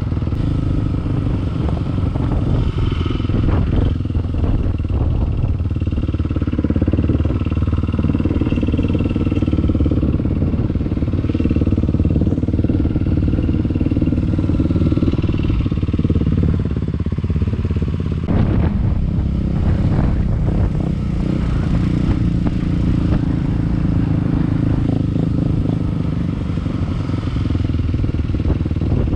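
Dirt bike engine running steadily while riding, its pitch shifting now and then with the throttle, with a few short knocks and clatters along the way.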